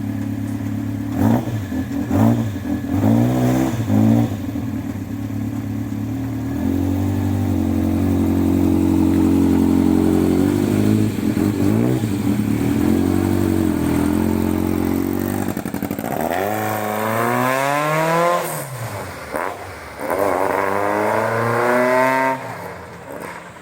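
Small classic sports car engine running, blipped a few times, then held at a steady higher speed. Near the end it is revved up and let down twice, rising and falling sharply in pitch.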